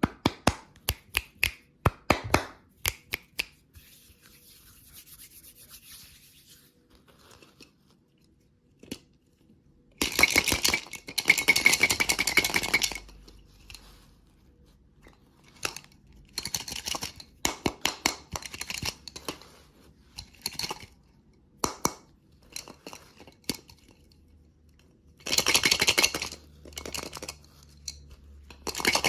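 Close-miked candy ASMR sounds: crisp clicks and crunches in quick runs, with two longer stretches of dense crackling, one about ten seconds in and one near the end.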